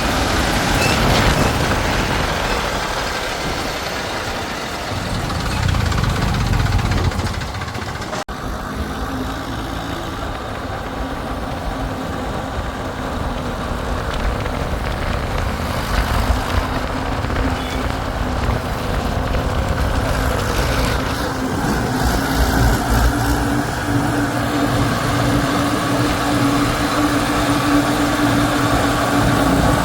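Diesel engine of heavy machinery running steadily, with a sudden break about eight seconds in, after which a steady engine hum holds.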